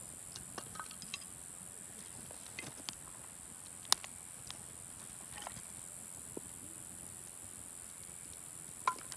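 Wood bonfire crackling: scattered small pops and snaps over a steady high hiss, with one sharp, loud pop about four seconds in and another near the end.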